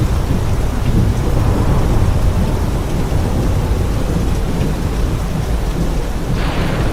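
Thunderstorm: steady rain with a deep, continuous rumble of thunder underneath. A brief brighter hiss comes near the end.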